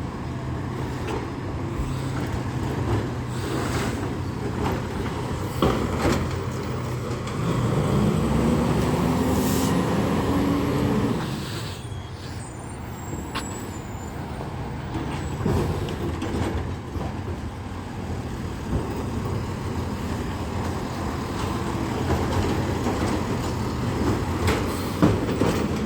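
Heil Rapid Rail automated side-loader garbage truck running at the curb, its engine revving up for a few seconds about a third of the way through, with scattered knocks and clanks.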